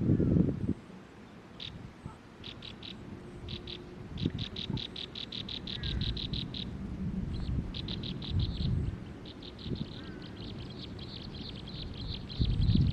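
Wild birds calling: rapid runs of high, dry chips repeated in long trains, with a few short falling whistled notes, over a low rumbling background that is loudest at the very start.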